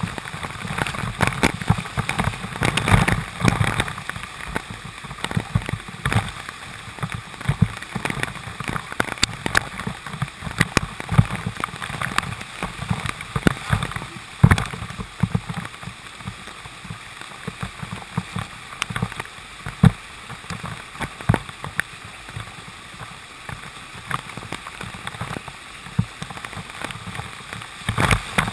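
Mountain bike being ridden over a rough trail: continual rattling clicks and knocks with low, uneven rumbling.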